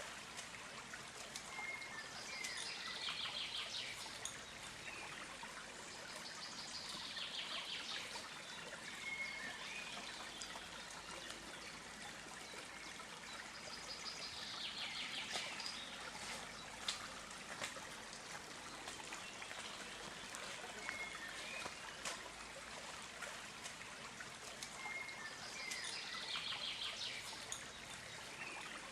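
A songbird sings the same short, descending trilled phrase several times, a few seconds apart, over a steady outdoor hiss.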